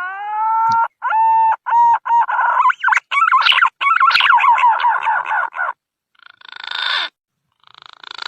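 Green pigeon (punai) song used as a lure call: a rising whistle, a few separate whistled notes, then a fast run of warbling notes, ending in two short rough, hoarse phrases near the end.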